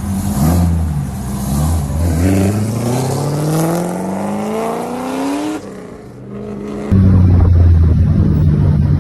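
A car engine revving, then accelerating hard in one gear: its pitch rises steadily for about three seconds as the car pulls away, then fades. About two-thirds in, the sound switches abruptly to a loud, steady low rumble.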